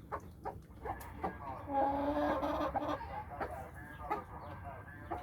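Domestic hen clucking, with a drawn-out call of about a second near the middle among short clucks.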